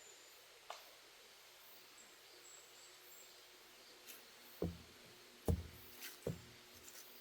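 Footsteps on a wooden deck boardwalk: dull thuds about once a second, starting about halfway through, over a faint steady hiss with a few thin high chirps.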